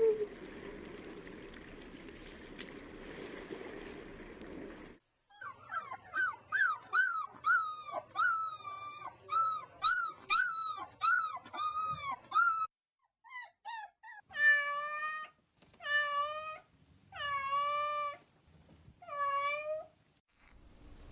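Cats meowing. After about five seconds of faint hiss, a quick run of short, high mews comes at about two a second, then four longer, lower meows.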